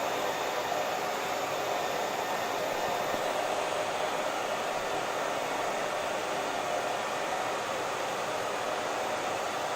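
Electric hair dryer running continuously, a steady whooshing blow of air and motor with no change in pitch or level.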